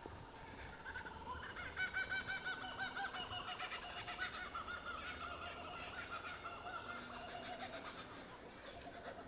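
Laughing kookaburras calling in a chorus of fast repeated notes. The calls start about a second in, are loudest soon after, and carry on a little softer.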